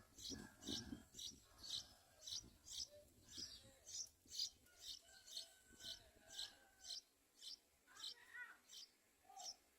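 Yellow-vented bulbul chicks begging at the nest, a faint, thin, high chirp repeated evenly about twice a second.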